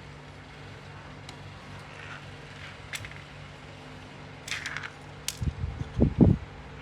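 Light metal clinks and taps as an antique Junghans clock movement is handled and set into its case, followed by a few dull knocks near the end.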